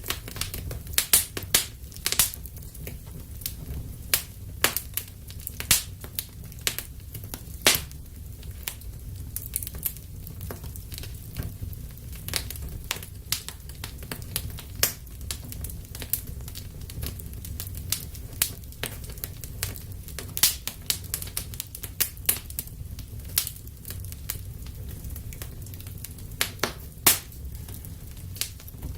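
Wood fire burning in a fireplace: a steady low rumble of the flames with irregular sharp crackles and pops, several a second, a few much louder than the rest.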